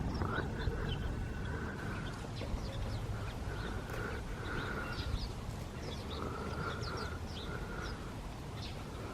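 A large flock of birds calling over one another: a dense, constant mix of short high chirps and repeated calls over a steady low rumble.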